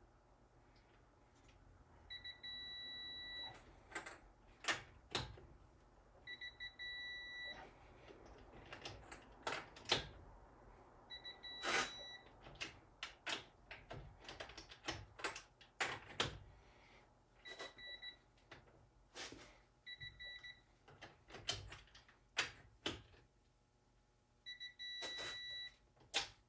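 Electronic beeps, about six of them, each half a second to a second and a half long, scattered among irregular metallic clicks and knocks of tools being handled.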